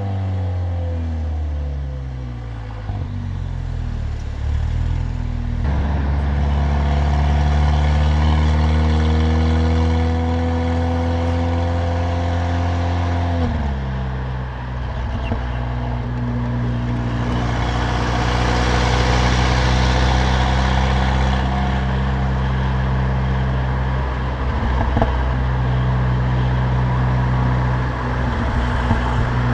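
Stage 2 tuned Mercedes-AMG CLA45's turbocharged four-cylinder and loud exhaust while driving. The engine note falls over the first few seconds, then pulls with the pitch slowly climbing until a gear change about thirteen seconds in drops it. After that it cruises at a steady pitch, with a rush of higher noise around eighteen to twenty seconds.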